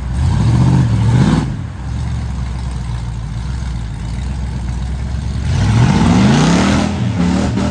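Old Ford mud truck's engine revving up twice, once at the start and again near the end, the pitch rising each time, with steadier, lower running in between.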